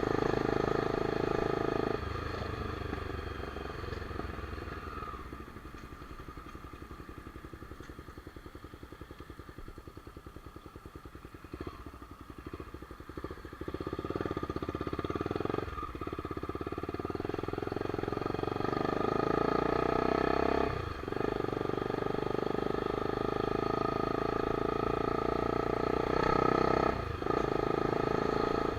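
Honda CBX 250 Twister's single-cylinder engine under way. It drops to a quieter, slow beat for several seconds, then picks up and accelerates, with three short breaks for gear changes in the second half.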